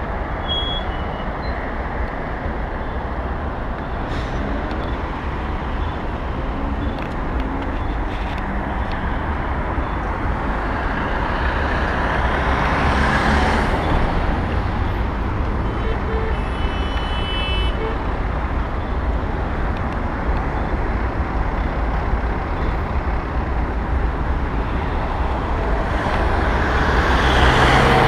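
Ride-along road noise from a moving electric bike: a steady low wind rumble on the microphone under traffic noise. A vehicle swells past about halfway through and another near the end, with a brief high, multi-tone sound a few seconds after the first.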